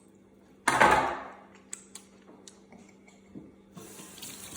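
Kitchen handling noise: a short loud rush or clatter that fades within about half a second, then a few light clicks and taps.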